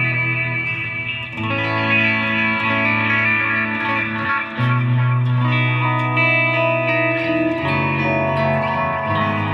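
Electric guitar, a Fender Player Stratocaster, played through a Fender Mustang GTX100 modelling amp on its "Milky Way" preset. Sustained, ringing chords change about every three seconds.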